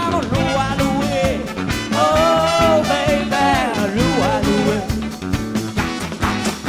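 Live band music: an upbeat number with a steady beat and a lead melody line that slides between notes.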